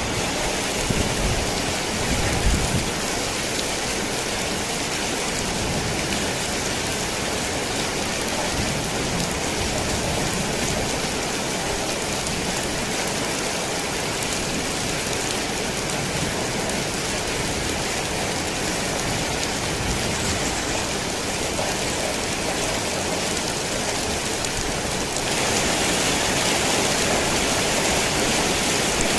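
Heavy rain pelting a tin roof in a steady, dense hiss. A low rumble of thunder dies away in the first few seconds, and near the end the rain abruptly grows louder and brighter.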